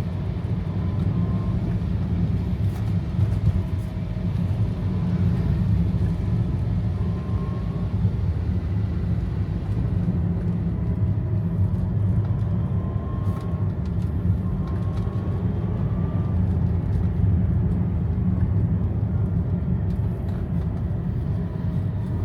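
Steady low rumble of a car running, engine and road noise heard from inside the cabin, with a faint wavering whine coming and going.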